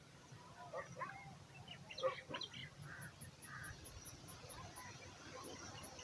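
Birds calling: groups of short calls about one and two seconds in, then a few rounder calls, with a faint fast high ticking through the second half.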